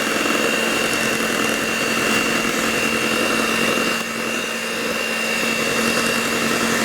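Electric mixer running steadily, beating cake batter made from cake mix, water, oil and eggs, with a constant hum and a higher whine; the level dips briefly about four seconds in.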